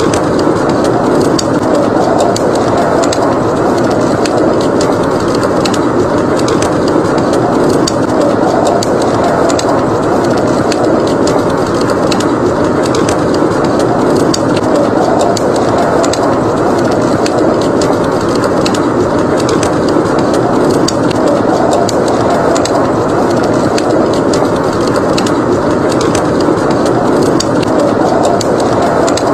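Wood fire crackling, with many small sharp pops over a steady, dense rushing noise of blizzard wind.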